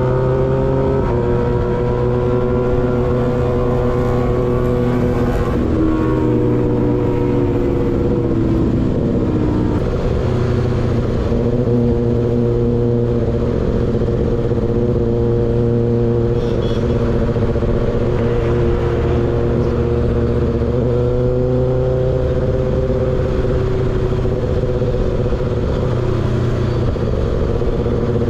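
Kawasaki ZX6R inline-four engine, breathing through an unbaffled M4 GP19 slip-on exhaust, running at fairly steady revs. Its pitch wanders slightly and falls between about six and ten seconds in.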